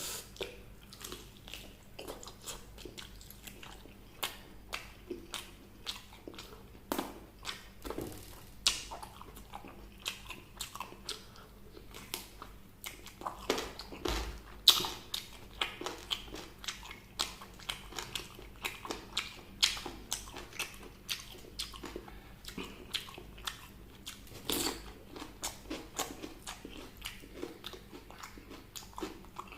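Close-miked eating: a person biting and chewing crispy fried chicken and vegetables, with many irregular crunches and wet mouth clicks.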